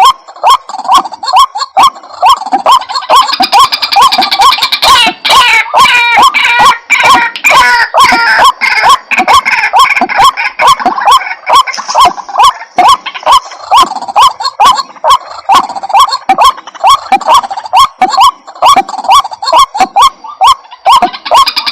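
White-breasted waterhen calling: a fast, steady run of repeated croaking notes played as a lure call, with a busier stretch of overlapping calls about five to nine seconds in.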